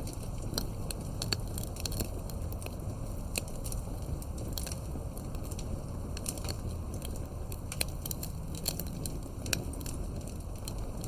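Wood fire burning with a steady low rumble and frequent sharp, irregular crackles and pops from the burning wood.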